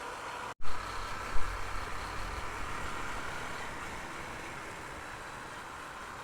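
Honda motorcycle riding along the road, with steady road and engine noise and wind rumbling on the microphone, heaviest just after a brief dropout about half a second in.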